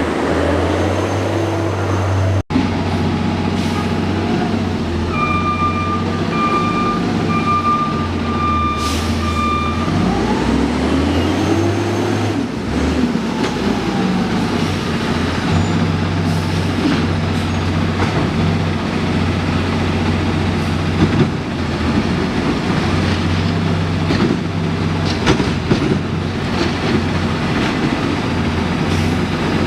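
Garbage truck's diesel engine running steadily. About five seconds in, a reversing alarm beeps about once a second for some five seconds, and then the engine pitch rises and falls once.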